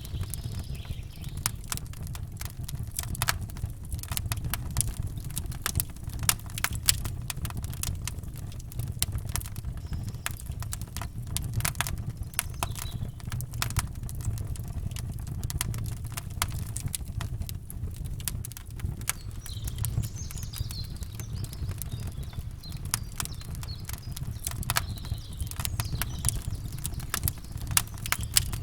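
Campfire crackling and popping with dense, irregular snaps over a steady low rumble, and faint birdsong at the start and again about two-thirds of the way in.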